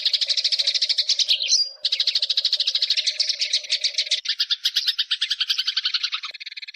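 Eurasian tree sparrows chirping in a fast, continuous chatter of short repeated notes, about ten a second. There is a brief break with a single rising note about a second and a half in, and the chatter turns lower and looser about four seconds in.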